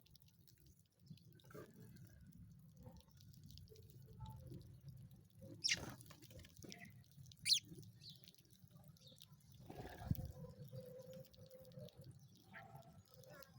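Sparse, faint chirps of small birds over a low background rumble, with two sharp chirps about six and seven and a half seconds in.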